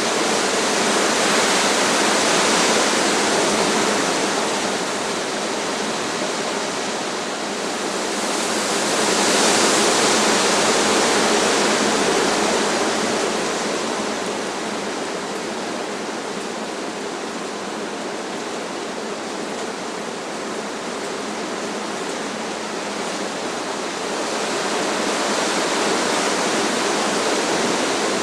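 Strong wind rushing through trees in a steady roar of noise that swells and eases in slow gusts: strongest about ten seconds in, calmer through the middle, building again near the end.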